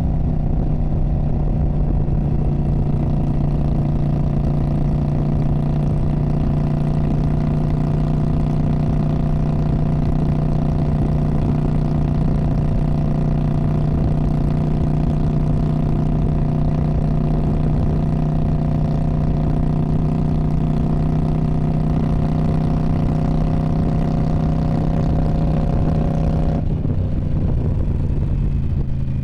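2019 Indian Scout Bobber's 1133 cc V-twin running through a Freedom Performance Radical Radius exhaust, held at a steady engine speed. Near the end the revs drop and the note falls lower.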